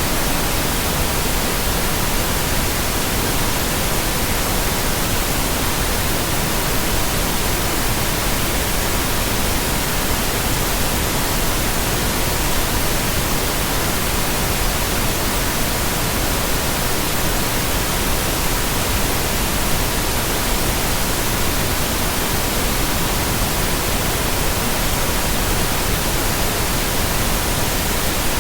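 Steady pink noise, even and unchanging, with a faint steady 963 Hz tone running beneath it.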